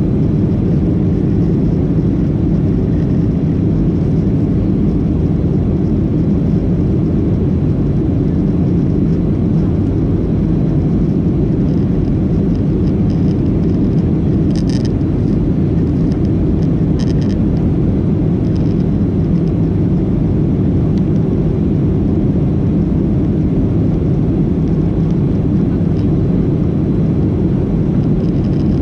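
Steady cabin roar of a Boeing 737-800 heard from a rear window seat: its CFM56 jet engines and the airflow over the fuselage, an even low rumble that does not rise or fall. Two faint clicks sound about halfway through.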